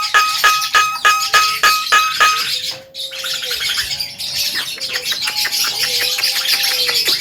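Javan myna chattering and whistling: a quick run of short repeated notes, about four a second, then a brief pause and lower drawn-out whistles over rapid clicking chatter.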